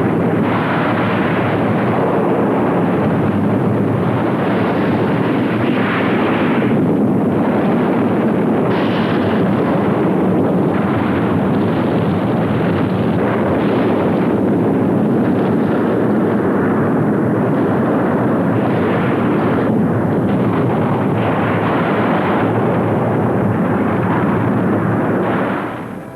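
Erupting volcano: a loud, continuous rumbling roar with blasts that swell up every second or two.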